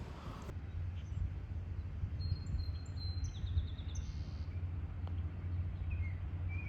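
Birds chirping, with a few short high calls and trills about two to four seconds in and more chirps near the end, over a steady low rumble of outdoor background noise.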